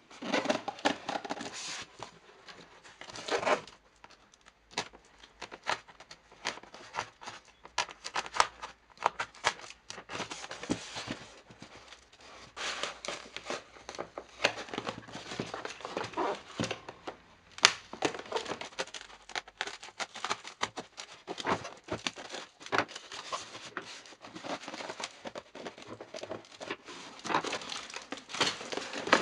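Polystyrene shipping packaging being torn open and handled by hand: irregular crinkling, tearing and crackling, with scattered sharper clicks.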